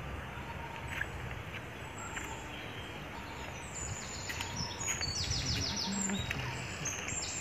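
Steady outdoor background noise with a bird calling overhead: quick runs of short, high chirps about halfway through and again near the end.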